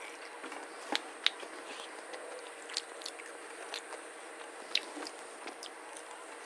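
A person chewing hand-eaten mouthfuls of rice mixed with dal and fish, heard close on a lapel microphone. The chewing is soft and wet, with about five short sharp mouth clicks and smacks, the loudest about a second in.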